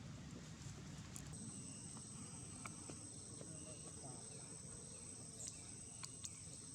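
A steady high-pitched insect call that starts about a second in and holds unbroken, over low background noise with a few faint clicks.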